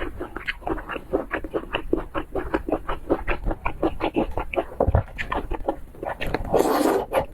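Close-miked chewing of seafood: rapid wet smacking about five or six times a second, with a longer, louder noisy burst near the end.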